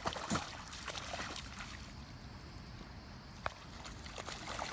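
Dog splashing about in a shallow rain puddle, with scattered small splashes and sloshes and two sharper ones, just after the start and about three and a half seconds in.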